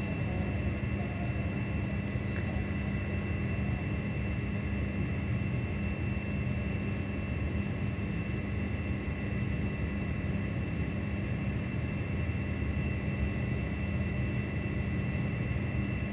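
Steady low roar of a heavy downpour, unchanging throughout, with a faint steady high whine running through it.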